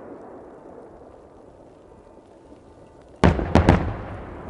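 Aerial firework shells bursting: a fading, echoing rumble from the previous salvo, then about three seconds in several loud booms in quick succession that ring out afterwards.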